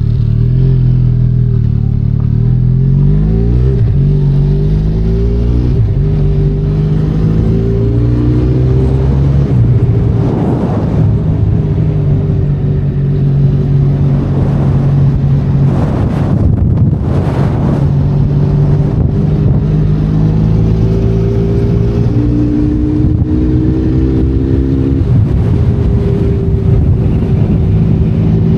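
Benelli Leoncino 500 Trail's 500 cc parallel-twin engine running under way, its pitch rising and falling repeatedly with throttle and gear changes. A few brief rushes of noise come about ten seconds in and again past the middle.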